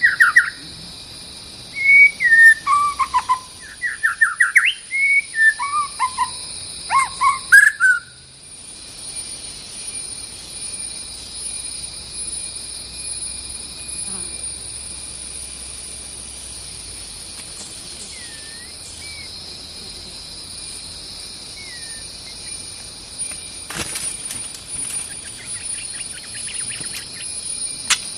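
White-rumped shama singing loud, varied whistled phrases for about eight seconds, then falling almost silent with only a few faint calls. A steady high insect drone runs underneath.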